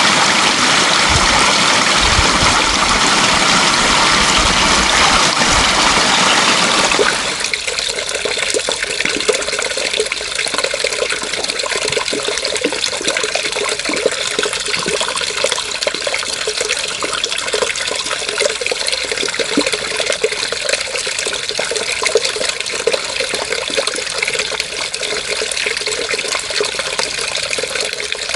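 Running water: a loud, full rush for about seven seconds, then an abrupt switch to a lighter, trickling and splashing flow.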